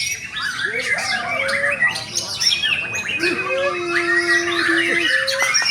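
White-rumped shamas (murai batu) singing, several overlapping strings of quick whistled and warbled phrases, with a long steady low whistle from about three seconds in.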